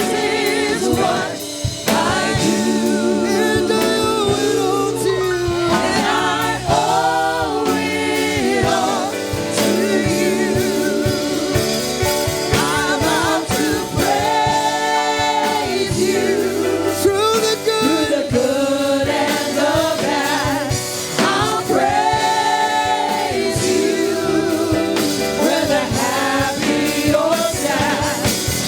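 Gospel praise song with group singing over live band accompaniment.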